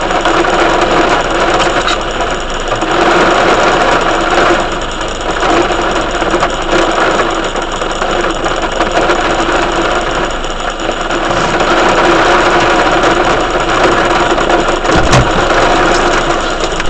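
Heavy thunderstorm rain falling in a steady loud hiss, with a short low thump near the end.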